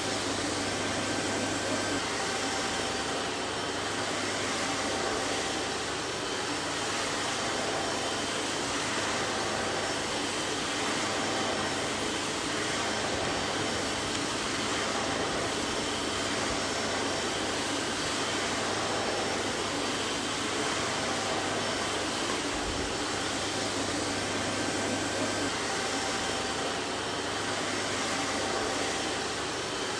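Vacuum cleaner running steadily, a constant hiss of rushing air with a faint motor whine in it.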